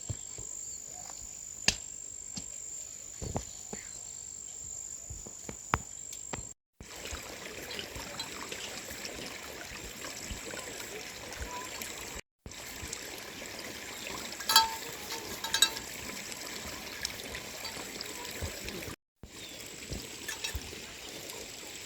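Steady trickling, running water, broken by three brief dropouts, with scattered sharp ticks and a short cluster of louder clicks about two-thirds through. A thin high whine sits over the first few seconds.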